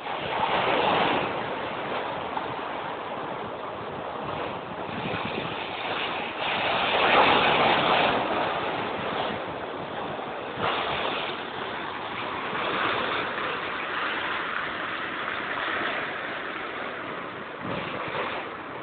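Big waves breaking and crashing in repeated surges, loudest about a second in, around seven seconds in, and again near eleven seconds.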